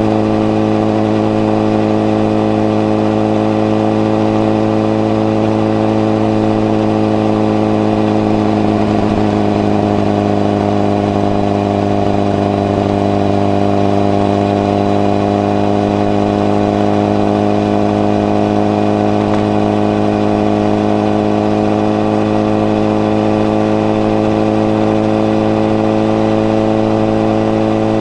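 Honda CBR1000RR (SC57) inline-four running through a modified Moriwaki exhaust with the baffle fitted, holding fairly steady revs while riding. The pitch dips slightly about nine seconds in, then climbs slowly toward the end.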